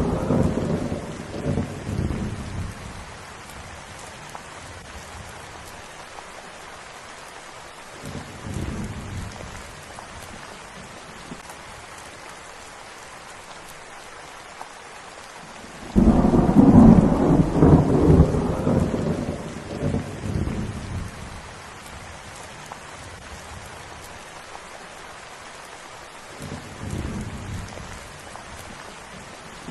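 Steady rain falling, with rolls of thunder. A rumble fades out at the start and a faint one comes about eight seconds in. A loud clap breaks suddenly about halfway and rumbles on for several seconds, and a weaker rumble follows near the end.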